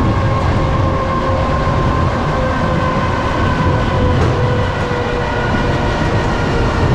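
Passenger train running, heard from inside the carriage: a steady rumble of wheels on the rails with a whine that drifts slowly lower.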